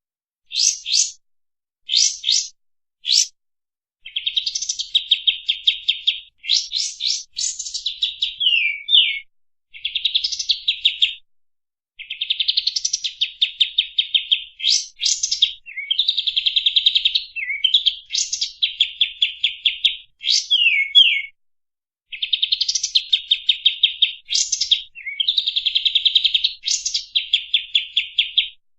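Kapas tembak songbird singing: bursts of fast, rattling, high-pitched trills, each a second or two long with short breaks between, some ending in a falling slurred note. Three short sharp notes open it.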